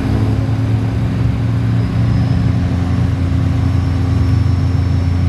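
Diesel pickup truck engine running steadily, with a low, even hum that does not rev up or down.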